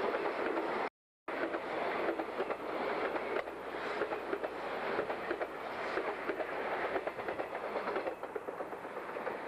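381 series electric train cars passing close by, their wheels clattering rapidly over the rail joints. The sound cuts out briefly about a second in, and the noise eases off near the end as the last car goes by.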